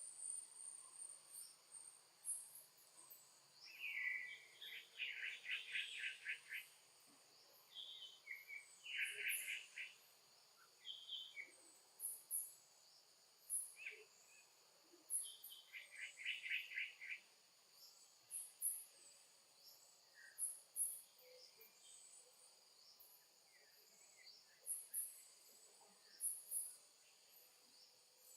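Faint chorus of insects with a steady high buzz and repeated short high chirps. A few rapid trilled calls, lasting a second or two each, break in over it now and then.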